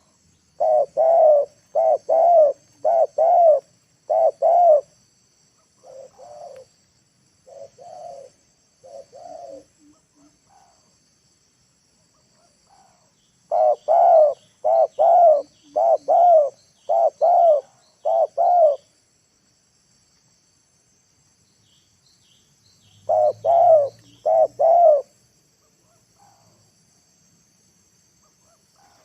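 Spotted dove cooing in runs of repeated, slightly rising-and-falling notes: about four loud notes in the first few seconds, a fainter few after them, six near the middle, and three near the end. A faint steady high insect hiss runs underneath.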